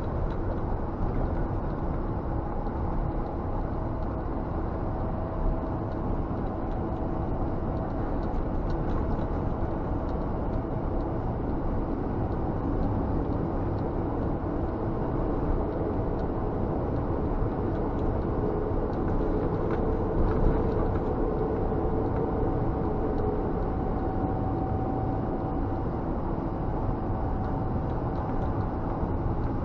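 Scania G460 truck's six-cylinder diesel and road noise heard from inside the cab while driving: a steady low drone with faint hums that shift slightly in pitch.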